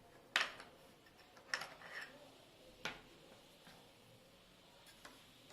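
Several sharp taps of small hard objects set down or handled on a table, irregularly spaced; the first is the loudest and a faint one comes near the end.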